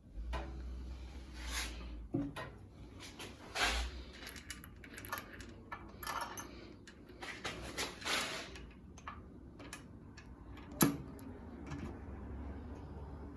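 Scattered metallic clinks, clicks and knocks of parts being handled, with one sharp knock about eleven seconds in, over a steady low hum.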